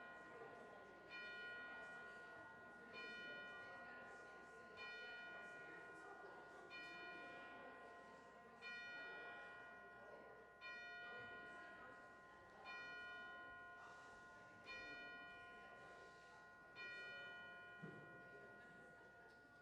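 A single church bell tolling slowly, struck about every two seconds, nine times, each strike ringing on and fading before the next. The tolling is faint, and the last strike dies away near the end.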